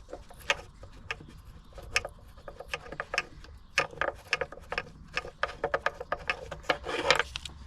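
Hand tools clicking and ticking on metal while engine bolts are undone: many short, sharp clicks at irregular spacing, a few to several a second.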